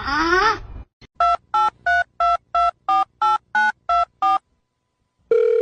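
A short rising cry, then a touch-tone phone keypad dialing ten digits: ten short two-tone beeps at about three a second. A steady phone tone starts near the end.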